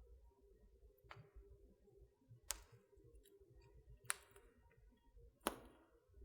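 Wood fire in a fireplace crackling softly: four sharp pops, roughly a second and a half apart, over a faint low rustle of the flames.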